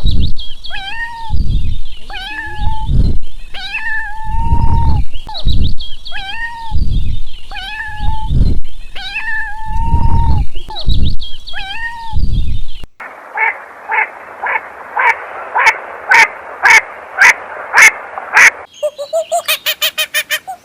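A cat meowing over and over in short calls, with low bumping noises between them. About 13 seconds in it gives way to a different sound, a hiss with a regular pulse about twice a second. Near the end comes a fast run of short chirps.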